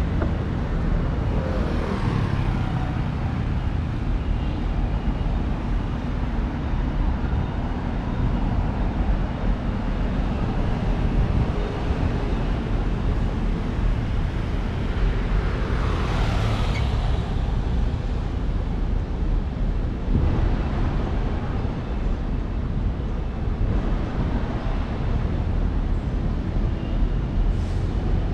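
City street traffic: a steady low rumble of engines and tyres, with vehicles passing by, the clearest one about halfway through.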